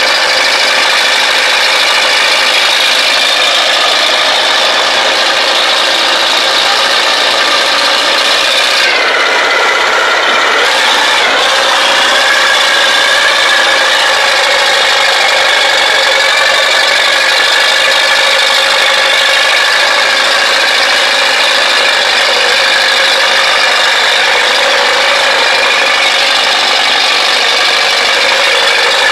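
YuMZ diesel tractor engines running hard under load in a tug-of-war pull, a loud steady rasping drone. About nine seconds in, the engine pitch sags and then climbs back.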